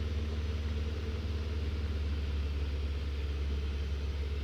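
Cockpit noise of a Jodel DR1050 light aircraft in flight: its piston engine and propeller drone steadily, with a strong low hum.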